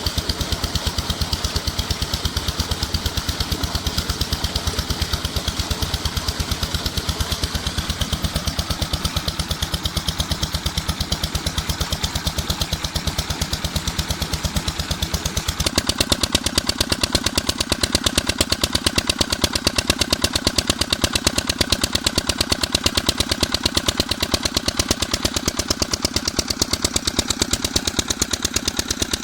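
Stationary diesel engine driving a tubewell, running steadily with a fast, even beat of exhaust strokes. About 16 seconds in the sound changes abruptly and gets a little louder.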